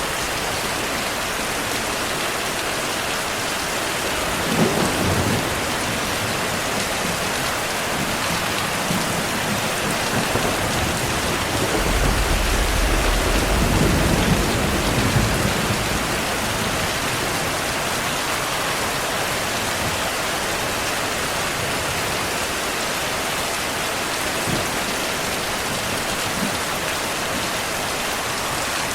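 Steady heavy rain with thunder: a short rumble about five seconds in and a longer, deeper, louder rumble from about twelve to sixteen seconds.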